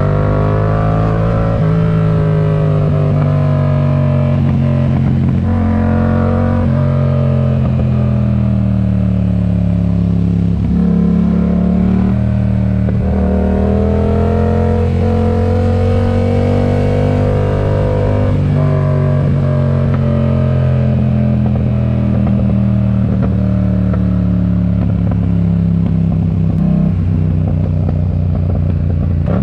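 Yamaha MT-07's 689 cc parallel-twin engine through a RoadsItalia aftermarket exhaust, under way: its pitch rises and falls again and again as the bike accelerates, shifts and rolls off.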